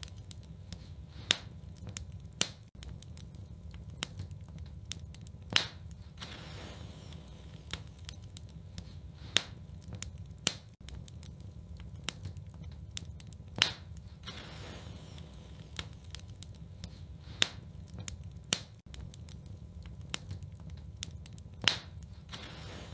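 Wood fire burning in a fireplace: a steady low rumble of flames with irregular sharp pops and crackles from the logs, a dozen or so loud snaps among many small ones.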